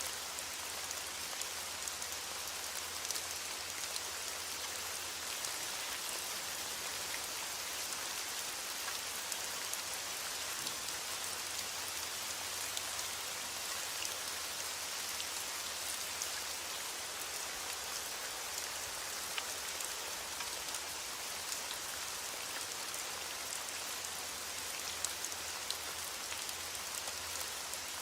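Steady rain falling on a surface: an even, bright hiss with scattered sharp ticks of individual drops.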